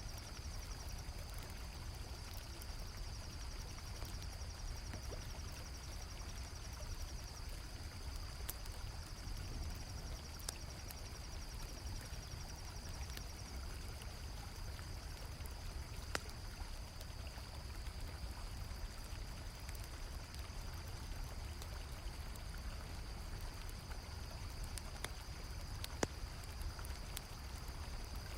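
Mixed night ambience: river water flowing as a steady low rush, crickets chirping in a continuous high trill, and scattered sharp pops and crackles from a campfire.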